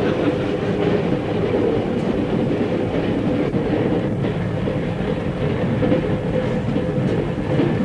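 Steady running noise of a moving train, with the sound of its wheels on the rails.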